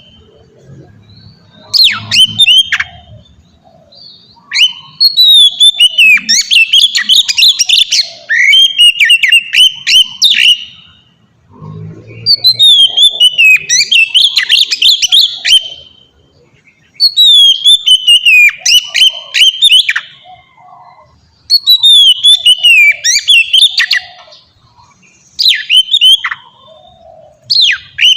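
Oriental magpie-robin (kacer) singing: bouts of loud, quick, varied whistles and trills, each a few seconds long, separated by short pauses.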